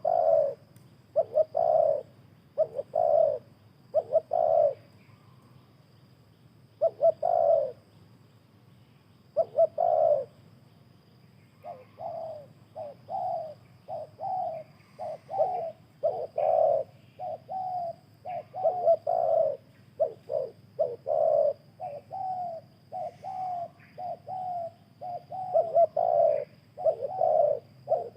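Spotted doves cooing in repeated phrases of low coos. From about twelve seconds in the calls come thick and fast, louder and fainter notes alternating as a second dove answers.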